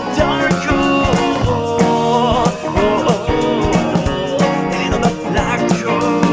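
Rock band music with electric guitars, bass and drums playing an instrumental passage, with a bending lead guitar line over a steady drum beat.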